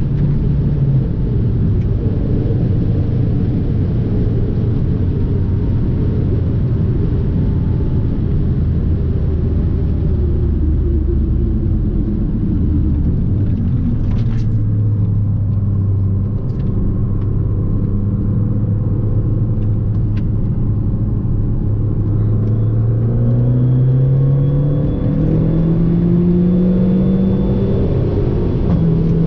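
Fiat 500 Abarth's 1.4-litre turbocharged four-cylinder engine running on the road over steady road noise. Revs drop soon after the start and hold low and steady, step up slightly a little before halfway, then climb smoothly under acceleration about three-quarters of the way through and settle at higher revs.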